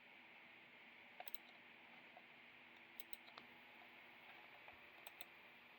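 Near silence: faint room hiss with a few soft clicks, several in close pairs, spread through the pause.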